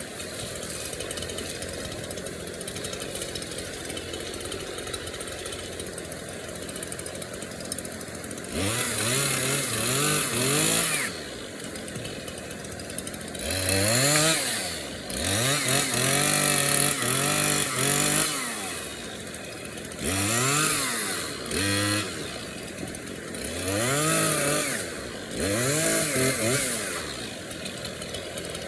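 Small gas chainsaw idling, then revved up to full speed in five bursts, dropping back to idle between them, as it cuts through fallen storm-downed logs.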